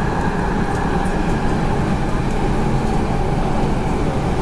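Running noise of an MTR K-stock (Rotem) electric train heard from inside the carriage: a steady rumble of wheels on rail with a faint steady hum, travelling at speed through a tunnel.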